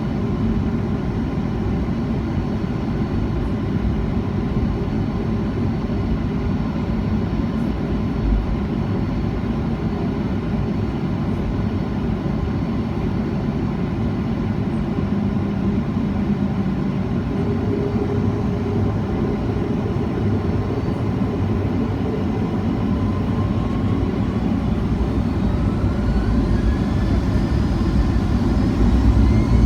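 Boeing 737-300 heard from inside the cabin: a steady low engine rumble. From about three quarters of the way through, a whine rises steadily in pitch as the CFM56 engines spool up toward takeoff thrust.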